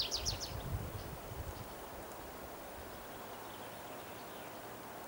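A songbird's rapid trill of high repeated notes, ending about half a second in, then quiet forest background with faint distant bird calls.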